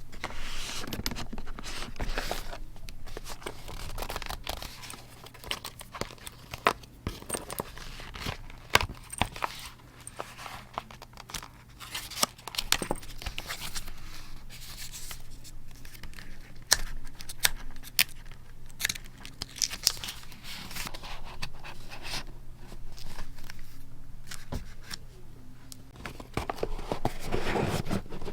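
Close-up paper and craft-material handling for journaling: paper rustling and tearing, with frequent small clicks and taps, over a faint steady low hum.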